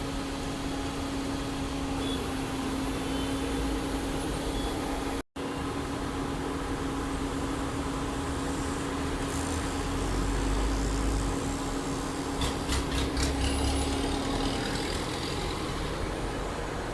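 Heavy construction machinery's diesel engine running with a steady hum and low rumble, with a short run of rattling clicks about twelve seconds in. The sound cuts out for an instant about five seconds in.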